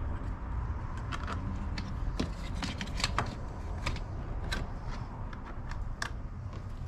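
Irregular sharp clicks and light metallic taps from hand tools and small parts as the auxiliary battery is fitted and its terminals are fastened, over a steady low rumble.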